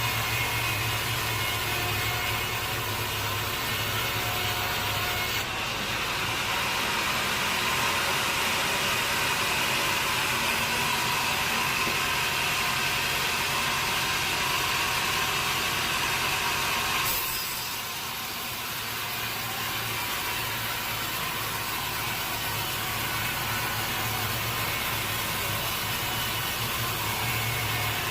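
Sawmill machinery running steadily, a saw cutting through a teak log over a constant low engine hum. A higher whine joins from about five seconds in and drops away abruptly about two-thirds of the way through.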